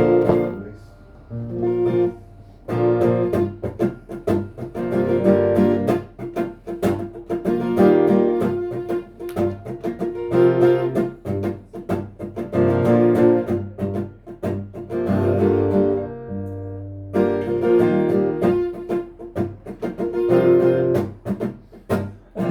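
Guitar strummed in a rhythmic pattern, with short pauses between phrases: an instrumental introduction before the singing comes in.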